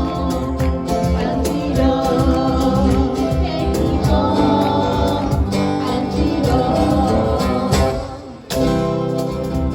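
Live band playing a song with singing and guitar. About eight seconds in the music briefly drops away, then comes back in suddenly and loudly.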